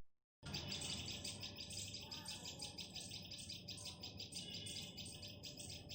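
Faint, fast run of short high bird chirps, about five a second, starting about half a second in after a moment of silence.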